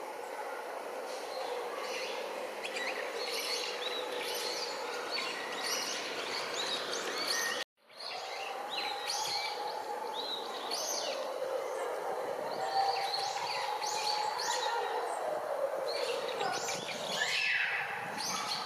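Birds chirping and calling over and over in short notes, over a steady low drone that rises and then falls in pitch in the second half. The sound cuts out completely for a moment just before the midpoint.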